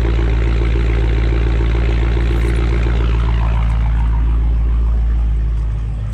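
Dodge Challenger Scat Pack's 6.4-litre HEMI V8 idling through an exhaust with the mid muffler and resonator deleted, a steady deep burble; its higher rasp fades away about three seconds in and the engine settles a little quieter near the end.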